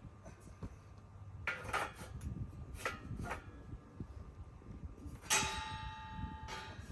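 Metal parts of a steel fire stand knocking and clinking as they are handled. About five seconds in, one hard strike rings for about a second and a half.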